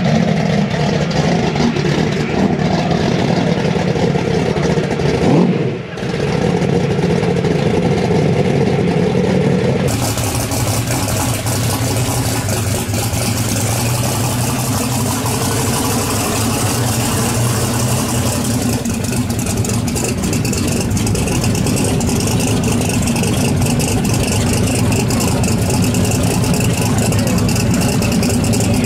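Twin-turbo Ford Mustang drag car's engine idling and running steadily at low speed. The sound changes at cuts about six and ten seconds in.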